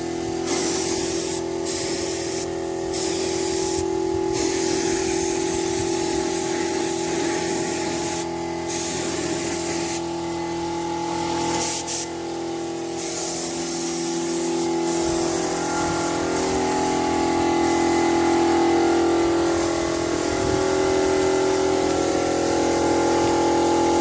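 Air spray gun hissing as grey primer is sprayed onto tractor parts. The hiss cuts off briefly again and again as the trigger is released, over a steady machine hum.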